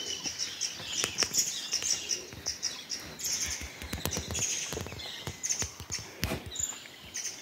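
Forest birds chirping in rapid series of short high notes and trills, over irregular low thuds and rustling from footsteps on a dirt trail.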